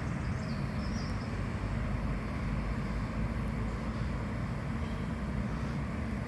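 Steady low rumble of an SKM commuter electric train at a station, with a faint high whine briefly about half a second in.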